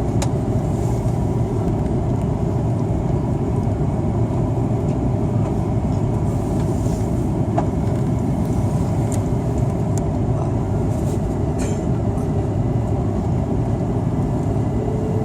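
Steady cabin drone of an Airbus A330-300 airliner, engine and airflow noise heard from inside the passenger cabin, with a few faint clicks.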